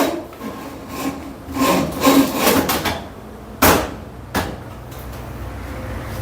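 Scraping and rubbing as dryer cabinet panels are handled and fitted, with a sharp knock about three and a half seconds in and a smaller one under a second later.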